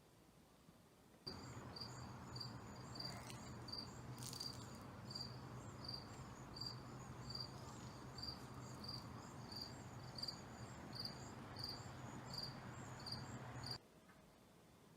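A cricket chirping in an even rhythm, about two chirps a second, over a steady low hum. The sound starts suddenly about a second in and cuts off suddenly near the end.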